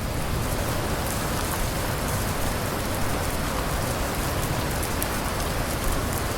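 Steady, heavy rain falling on a surface, a dense even hiss flecked with the ticks of individual drops.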